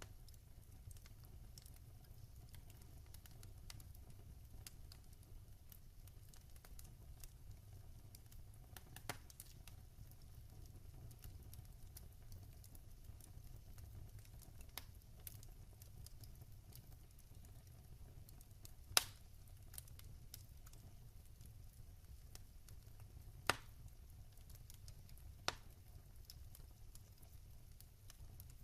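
Wood fire in a fireplace crackling faintly over a low steady rumble, with scattered small ticks and a few sharper pops, the loudest about two-thirds of the way through.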